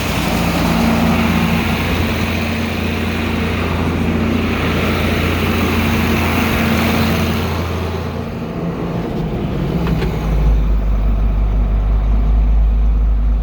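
Diesel engine of farm machinery running steadily; about eight to ten seconds in its note changes and settles into a deeper, lower hum.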